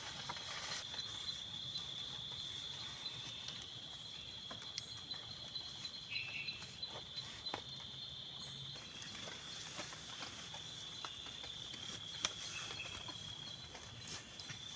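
Crickets trilling steadily in a high, quickly pulsing chorus, with a few scattered sharp taps over a faint hiss.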